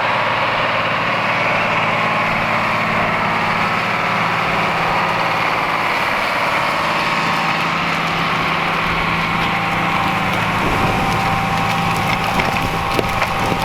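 Large AGCO farm tractor's diesel engine running steadily, with a low hum and a steady higher whine over it. A few crackles come in near the end.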